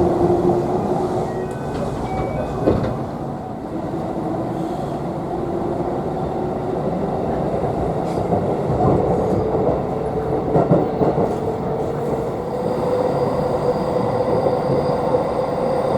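Electric commuter train accelerating, heard from inside the carriage: a motor whine that climbs steadily in pitch over the rumble and clatter of wheels on the rails, with a single sharp knock about three seconds in.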